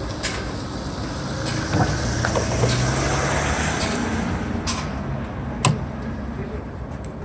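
A vehicle engine running steadily, with a few sharp clicks and knocks over it, one louder knock near the end.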